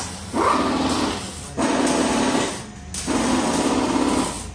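Engine revved in repeated bursts of about a second each through a loud exhaust, with a rapid pulsing rasp. There are four revs, with short dips between them.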